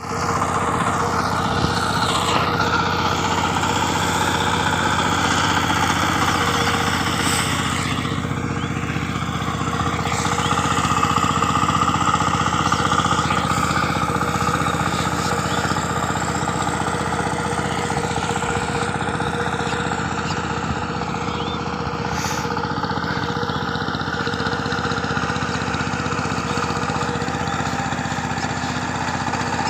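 Walk-behind power tiller's engine running steadily, a loud, even engine note with little change in speed.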